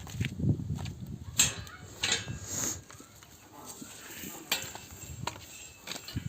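Metal hand tools clinking and knocking during tyre repair work: a few sharp strikes over a low rumbling background.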